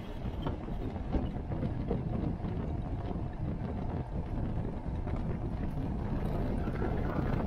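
Wind buffeting the microphone on an open rail car, over the steady rumble of a moving train on the track.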